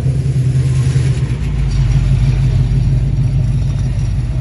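Car engine running at a steady speed with a low drone.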